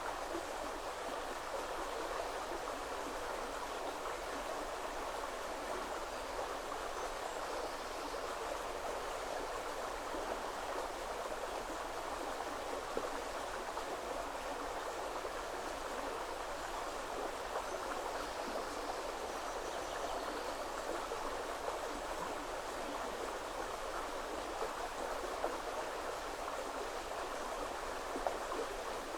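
Woodland river flowing, a steady rush of running water that holds even throughout.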